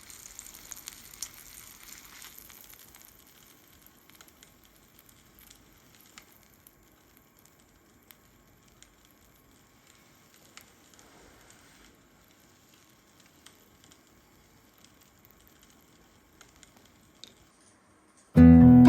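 Food sizzling as it cooks, fading after about three seconds to faint scattered pops and ticks. Acoustic guitar music comes in near the end.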